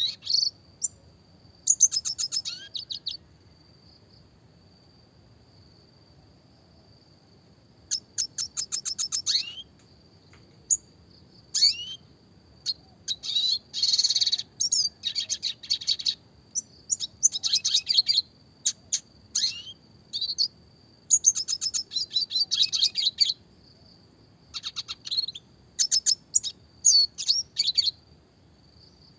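Red siskin (Spinus cucullatus) singing in repeated phrases of fast rolling trills and sharp chirps, with a pause of several seconds early on and short breaks between later phrases.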